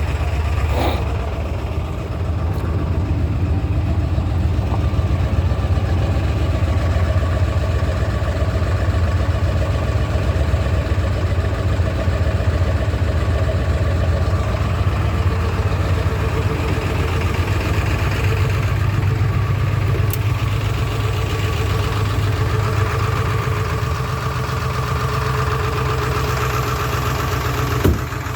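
Ford 7.3 Power Stroke V8 turbo-diesel idling steadily just after a cold start in 15° weather, having caught after a little trouble.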